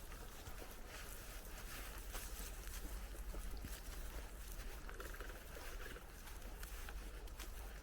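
Bicycle rolling along an outdoor path: a steady crackle from the tyres with many small irregular ticks, over a constant low rumble.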